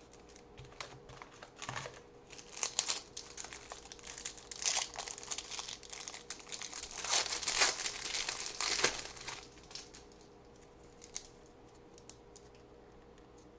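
A trading card pack wrapper crinkling as it is handled and opened. The crackling is densest about seven to nine seconds in, then dies down to a few faint ticks.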